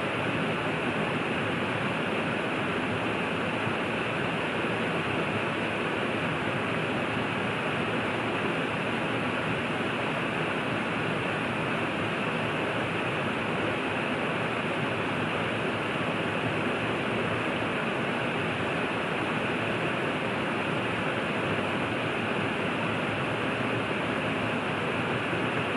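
River water rushing steadily, an even wash of sound with no change.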